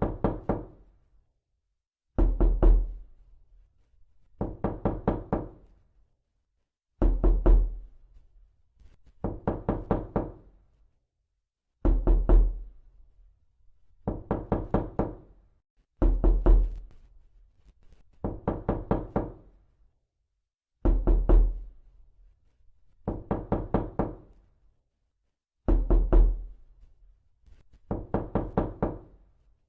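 Repeated knocking in groups of about four to six quick knocks, one group roughly every two and a half seconds. Each knock has a deep thud and a hollow ring.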